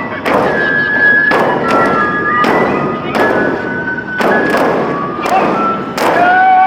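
Neputa festival music: big taiko drums struck about once a second under a high flute melody of held notes.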